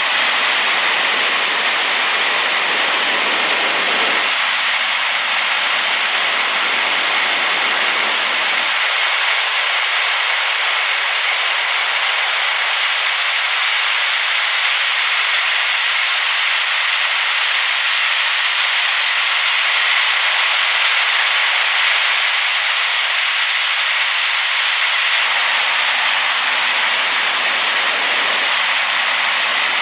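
Waterfall running high after rain: a loud, steady rush of falling water, like white noise.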